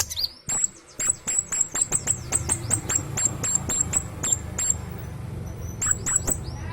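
A kingfisher calling in a fast run of sharp, high, chattering notes, about four to five a second. It pauses briefly, then gives a few more notes near the end.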